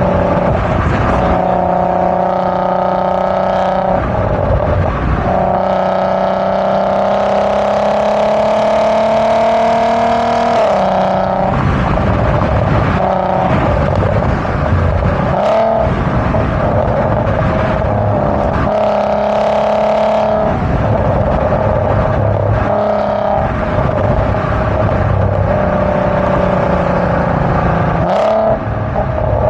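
Volkswagen MK5 Golf R32's 3.2-litre VR6 engine and exhaust under acceleration, with the resonators replaced by Magnaflow straight-through mufflers. The note climbs steadily in pitch and drops at each shift, several times over, with the deeper tone and the warble that come from the resonator delete.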